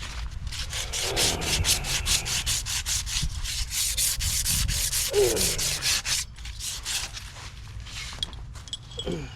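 Abrasive rubbing in quick back-and-forth strokes, about four to five a second, like sanding cloth or a brush working a metal fitting. It slows and grows fainter about six seconds in. Two short falling squeaks come about five and nine seconds in.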